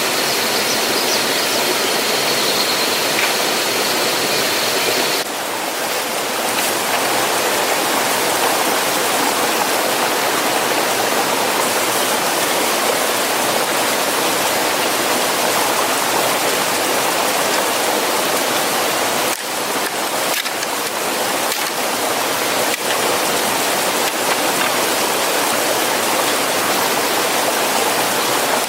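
Steady rush of flowing water. A faint, high, steady whine sits over it for the first five seconds, and the sound dips briefly about five and nineteen seconds in.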